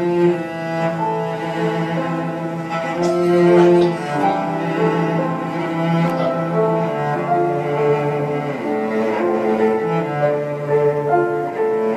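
String quartet of violins, viola and cello playing classical music in sustained notes over a steady low cello line.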